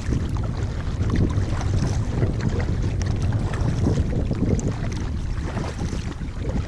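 Strong wind buffeting the microphone in a continuous low rumble, with small irregular splashes of water against an inflatable kayak.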